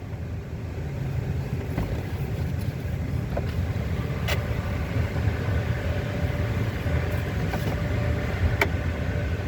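Car engine idling with a steady low rumble, heard from the driver's seat, with a couple of faint clicks about four and eight seconds in.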